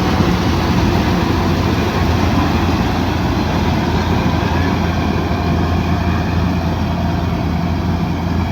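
Kubota DC108X combine harvester running steadily under load: a constant low engine hum under an even, dense machine noise that does not change.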